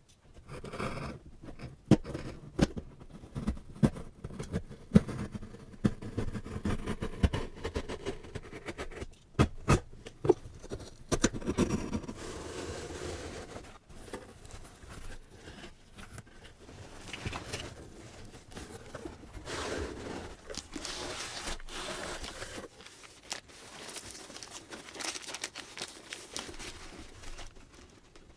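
Product packaging being unboxed by hand: sharp taps and knocks in the first half, then longer stretches of crinkling, tearing and rustling wrapper noise.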